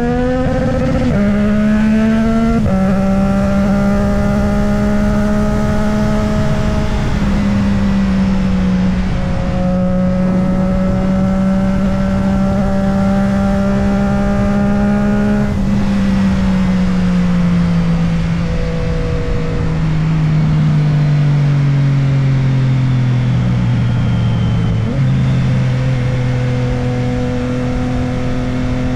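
Motorcycle engine running while riding, with wind rushing past the microphone. The engine pitch drops twice near the start as it shifts up, holds steady at a cruise, then sinks slowly as the bike slows, and jumps up once near the end at a downshift.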